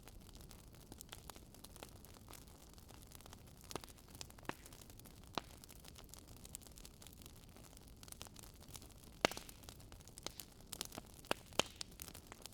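Campfire burning with a low steady hiss and irregular crackles and pops of the burning wood, the sharpest pop about nine seconds in and a flurry of crackles near the end.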